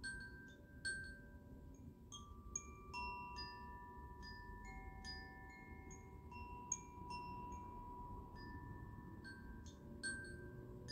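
Metal chimes played in a sound-therapy session: a steady scatter of small bright strikes, with several clear notes at different pitches ringing on for seconds and overlapping.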